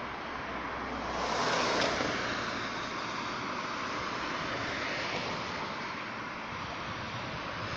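A steady rushing noise that swells for a second or so near the start, then evens out.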